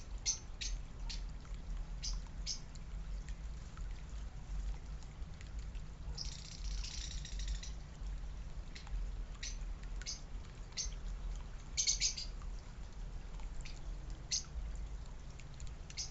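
Small birds chirping in short, scattered calls, with a brief burst of rapid chattering about six seconds in and another around twelve seconds, over a steady low rumble.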